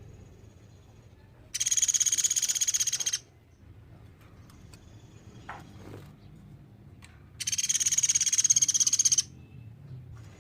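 Platuk beras bird calling: two loud, high-pitched, very fast trills of rapid repeated notes, each about a second and a half long, the first about a second and a half in and the second near the end. A faint thin high tone lingers between them.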